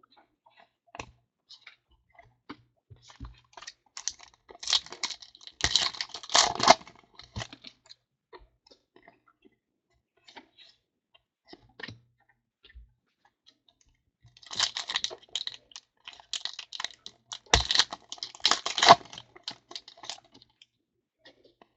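Trading card packs being handled: foil wrappers crinkling and cards clicking as they are flicked through. The sound comes as two dense bursts of crackling and clicking, with scattered single clicks between them.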